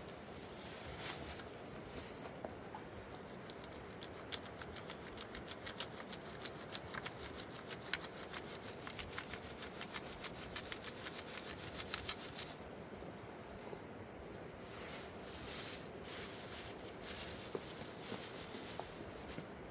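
Rapid, even rubbing or scraping strokes, several a second, that stop about two-thirds of the way in, followed by a few looser rustles and scrapes.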